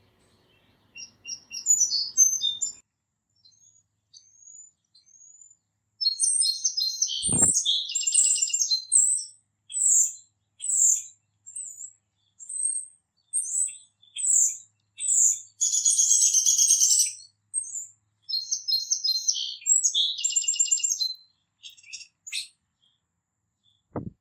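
Small songbirds chirping and calling at a bird feeder, a busy stream of short, high chirps and quick trills. About seven seconds in there is a single dull thump.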